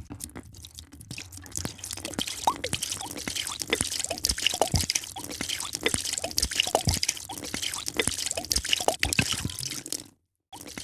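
A drink being poured, with liquid splashing and bubbling in many small drips and plops. It stops abruptly near the end.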